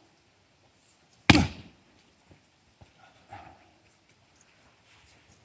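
An axe striking a firewood log once, a single sharp chop about a second in that dies away quickly.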